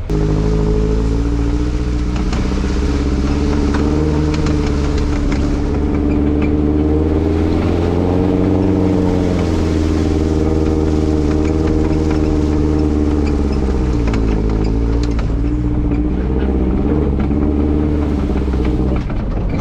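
4WD's engine running hard under load, its revs slowly rising and falling, with scattered clatter.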